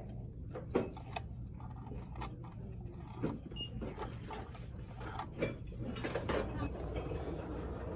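Shop room tone: a steady low hum with scattered light clicks and knocks of merchandise being handled, the loudest about a second in, again at about three seconds and near five and a half seconds.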